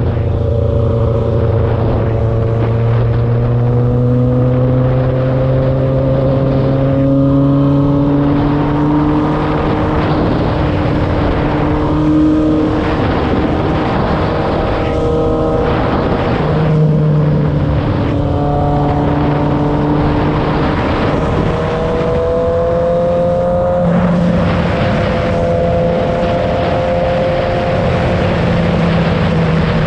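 Motorcycle engine under way while riding. The revs climb slowly, and the pitch drops or jumps several times with gear changes, over a steady rush of wind.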